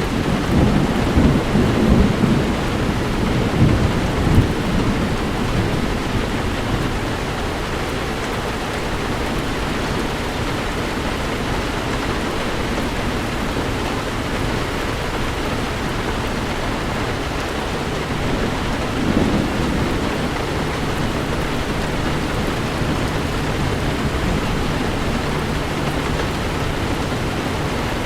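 Heavy rain falling steadily on a car driving through a storm, with low rumbles of thunder in the first few seconds and again about two-thirds of the way in.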